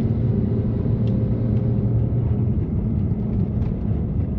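A 2018 BMW F80 M3 Competition's twin-turbo inline-six, with catless downpipes and an open valved exhaust, droning steadily at a constant low engine speed while cruising slowly in snow. A few faint clicks come through over the drone.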